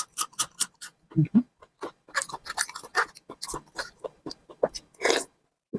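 Close-up eating sounds: chewing and mouth smacks, a rapid run of short wet clicks.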